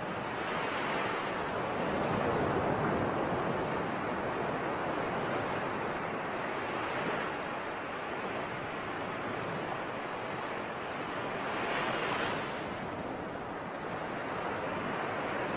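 Sea surf: a continuous wash of waves, swelling as a wave breaks about two seconds in and again about twelve seconds in.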